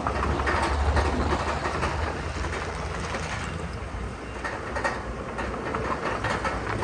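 Heavy diesel earthmoving machinery working: a steady low engine rumble with continuous metallic clanking and rattling, like steel crawler tracks or rock shifting.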